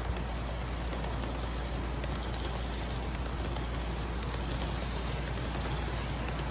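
Model train locomotives running on the layout track: a steady low motor hum with a faint patter of small clicks from the wheels.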